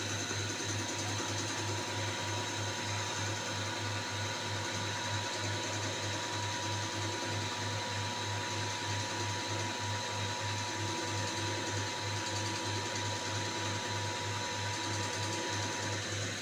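Common-rail diesel injector test bench running a Hyundai Xcent injector through a back-leakage test: a steady machine hum pulsing at an even rapid rate, with a steady high whine over it. The injector being tested returns too much fuel, the fault behind the car's knocking.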